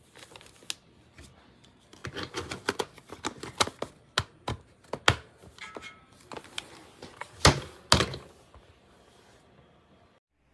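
A run of sharp clicks and knocks, as of objects being handled, sparse at first, then coming thick and fast from about two seconds in, with the loudest knocks near the end.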